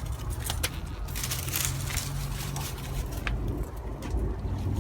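Leaves and vines rustling and crackling as garden plants are handled, with scattered short snaps over a low rumble.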